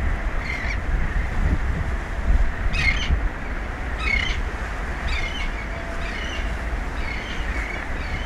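Birds calling in a series of short, high calls, roughly one a second, over a steady low rumble of wind and sea.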